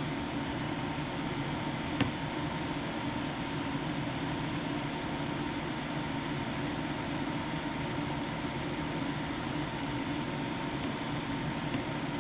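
A steady mechanical hum with a faint high tone running through it, and one sharp click about two seconds in.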